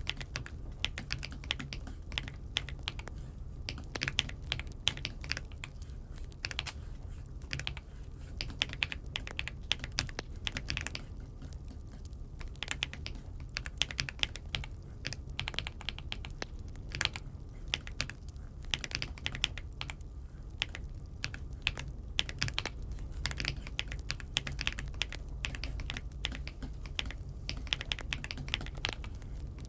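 Aula F75 mechanical keyboard being typed on: a steady, irregular stream of keystroke clicks and clacks, with a steady low hum underneath.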